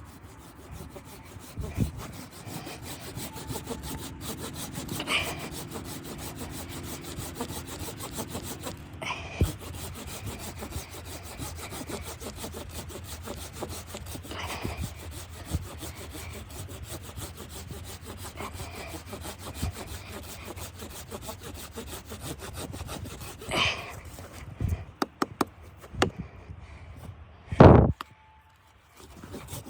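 Wood being sawn by hand: a steady rasping scrape that goes on with only short breaks. Several sharp knocks of wood come through it, the loudest near the end, and then the sawing stops briefly.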